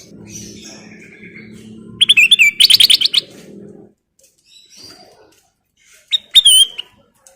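Kutilang emas bulbul singing in loud bursts: a rapid run of high, ringing notes about two seconds in, softer chirps, then another short phrase with a falling note near the end. A low steady hum runs under the first half.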